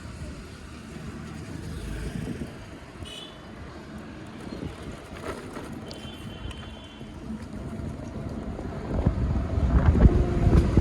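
Wind buffeting the microphone and road noise while riding an electric scooter, with two brief faint high tones about three and six seconds in; the rumble grows louder near the end.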